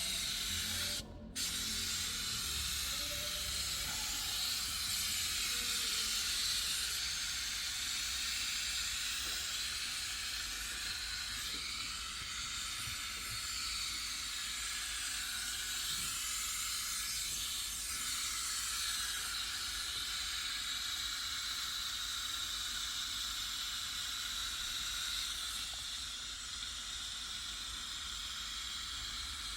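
Steady hiss of a pressurised jet from a detailing tool, briefly cut off about a second in.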